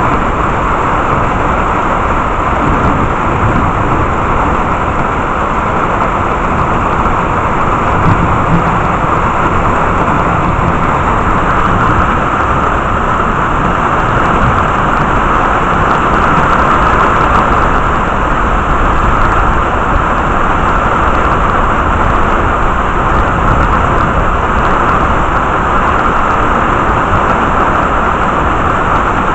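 Steady downpour of rain during a thunderstorm, an even, unbroken rushing hiss.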